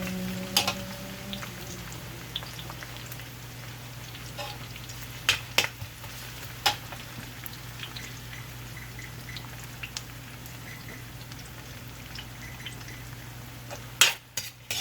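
Garlic and onion frying in a pan with a steady sizzle, broken by scattered sharp clicks and knocks, the loudest few near the end.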